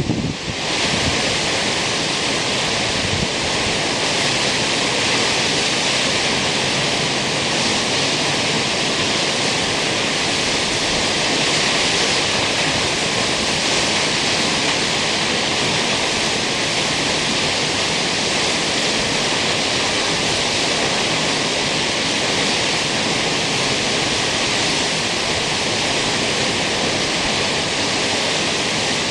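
Kegon Falls, a tall plunge waterfall, rushing: a steady, dense roar of falling water with no let-up.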